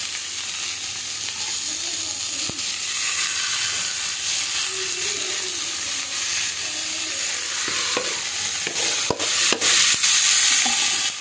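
Chopped spinach sizzling in hot mustard oil in an aluminium kadai, a steady frying hiss. A few sharp knocks sound near the end, the loudest part.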